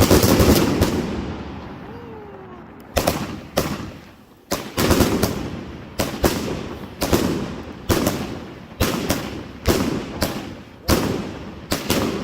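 Consumer firework cake firing: one loud bang, then after a short pause a rapid series of sharp bangs at about two a second, each fading off quickly.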